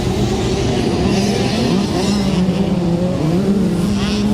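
Motocross bike engines running on track, several at once, their pitch rising and falling as riders work the throttle and shift.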